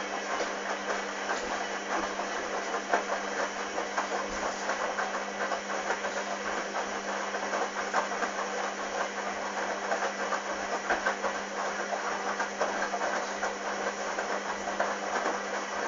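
Hoover Dynamic washing machine's drain pump running with a steady hum, under a dense gurgling and splashing of rinse water. It stops near the end.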